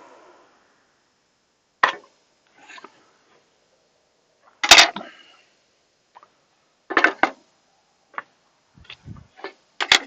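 Cut wooden boards knocked and set down on a workbench: scattered sharp wooden knocks and clatters. The loudest comes about five seconds in, and several follow in quick succession near the end.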